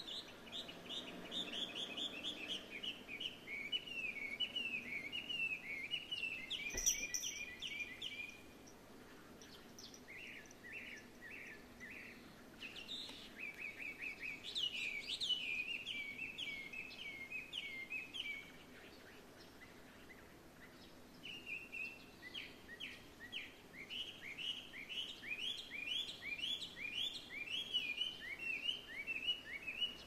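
Bird song in long phrases of fast repeated whistled notes, each phrase switching to a new note pattern, with short pauses between phrases; the singer is taken for a Chinese hwamei (gabichō), a mimic. A single click about seven seconds in.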